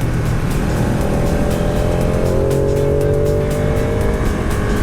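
Motorcycle engine running at road speed, its note rising gradually in the middle as it accelerates.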